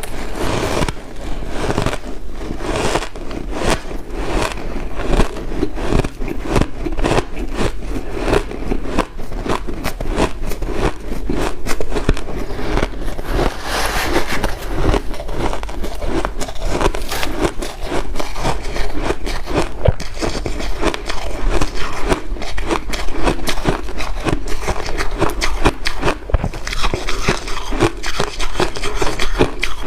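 Ice being bitten and chewed close to the microphone: a dense, irregular run of crunches and crackles, several a second.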